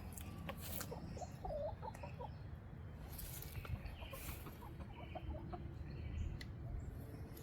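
Backyard birds calling in two runs of short, low notes, the first about a second in and the second about five seconds in, over a steady low wind rumble.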